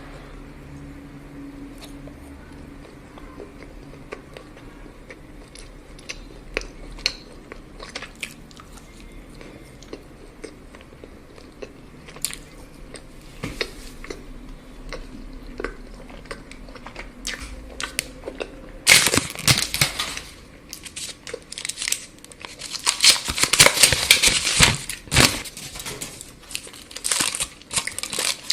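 Scattered small clicks and taps, then, about two-thirds of the way through, loud crinkling and crackling of chocolate wrapper packaging being handled and torn open.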